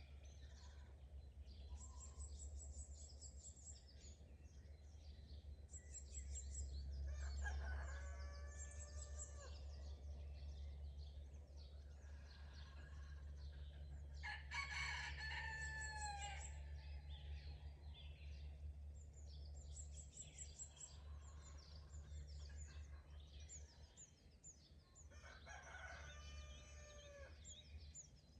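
A rooster crowing three times, each crow about two seconds long and dropping in pitch at the end, while small songbirds chirp and sing throughout over a faint steady low rumble.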